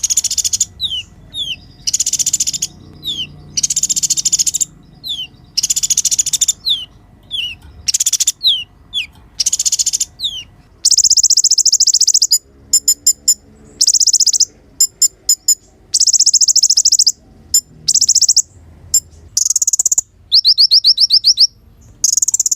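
Kolibri ninja sunbird singing: loud, high-pitched buzzy bursts alternate with short falling chirps, then about halfway through give way to fast trills and rapid runs of repeated notes.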